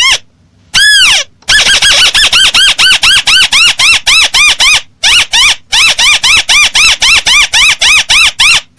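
Recorded crake lure call (burung tikusan) played for bird trapping: one long arched note, then a fast run of short arched chirping notes about four a second, broken once by a short gap about five seconds in.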